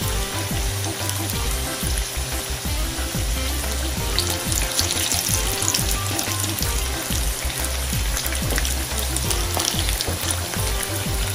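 Already-cooked breadfruit wedges shallow-frying in hot oil in a skillet: a steady sizzle full of small crackling pops. The crackling flares up about four to six seconds in and again near the end, as tongs move the pieces in the oil.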